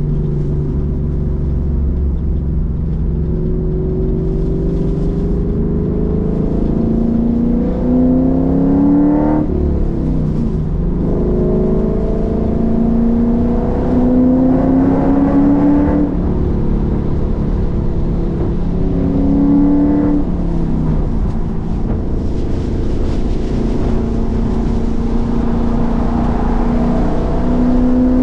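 Roush Mustang engine, heard from inside the cabin, accelerating through the gears. Its pitch climbs in long pulls and drops sharply at each upshift, about nine, sixteen and twenty seconds in, then climbs again toward the end.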